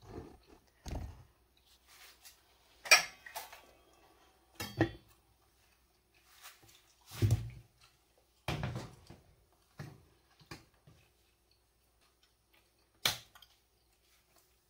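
Kitchen clatter of a pot, its lid and utensils being handled: about ten separate knocks and clinks with short quiet gaps between them, the loudest about three seconds in.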